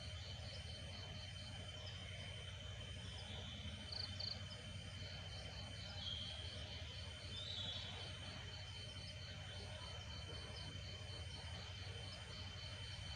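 Chorus of night insects chirping in a steady pulsing rhythm over a steady high buzz, with a couple of brief louder calls about four seconds in and again around six and seven seconds.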